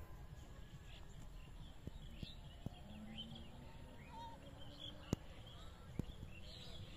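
Birds chirping in the background over a low rumble, with a few sharp clicks, the loudest about five and six seconds in.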